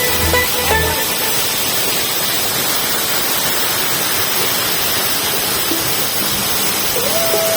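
Steady rushing roar of a waterfall, an even noise. Electronic dance music with a bass beat cuts out about a second in, and a held musical tone comes in near the end.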